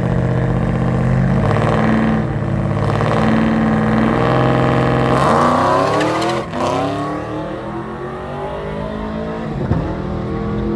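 A drag-racing truck's engine runs steadily, then revs up sharply about five seconds in as it launches. The pitch drops briefly at a gear change and then climbs again as the truck accelerates away.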